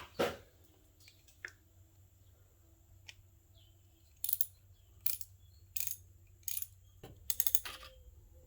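Socket ratchet clicking through short back-and-forth strokes while tightening the 10 mm bolt that holds a camshaft position actuator solenoid. There are a few scattered clicks first, then a steady run of strokes about one every 0.7 s, and a quick flurry near the end.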